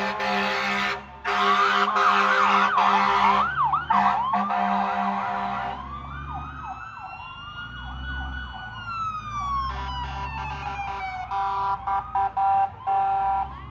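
Several emergency-vehicle electronic sirens sounding together: fast yelping sweeps at first, then slow wailing rises and falls. Steady horn blasts start and stop repeatedly near the end.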